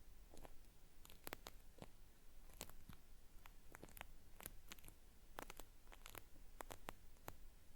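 Cotton swab rubbed and scraped close to a binaural microphone for a peeling-style ear-cleaning sound, giving faint, irregular crisp crackles and clicks, several a second.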